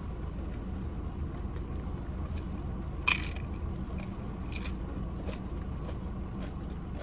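Steady rain noise with faint scattered ticks, broken by two short crisp crunches about three and four and a half seconds in.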